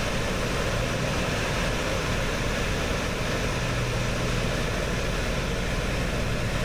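Steady, loud drone of a light sightseeing plane's propeller engine, heard from inside the cabin in flight.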